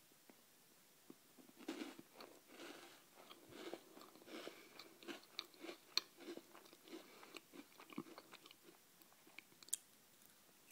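A person chewing crunchy Teddy Bear biscuits close to the microphone: irregular small crunches starting about two seconds in, with a sharper click near the end.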